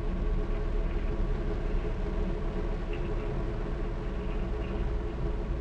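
A steady, low mechanical rumble with a constant hum that holds unchanged throughout.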